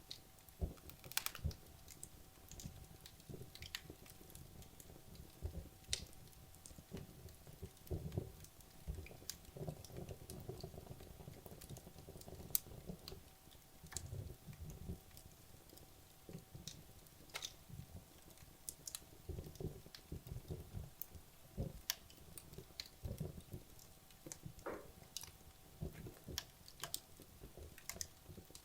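Wood logs burning in a fireplace: irregular sharp crackles and pops scattered throughout, over a low, uneven rush of flame.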